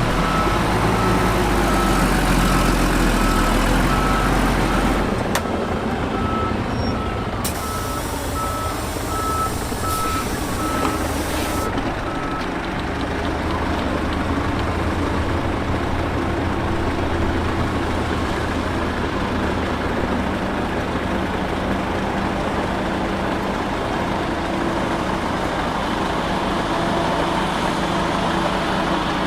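Heavy diesel dump truck running with its reversing alarm beeping steadily for the first twelve seconds or so. A hiss of air lasts about four seconds partway through, and the engine keeps running after the beeping stops.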